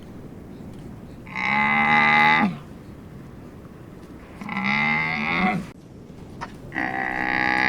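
An animal calling three times, each a drawn-out pitched call lasting about a second, with quieter gaps between calls.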